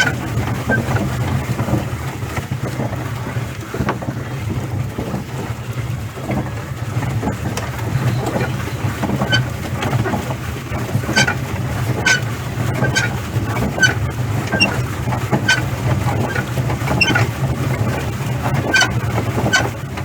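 Open-air ambience on a small hand-driven boat: a steady low rumble, with short high chirps every second or so.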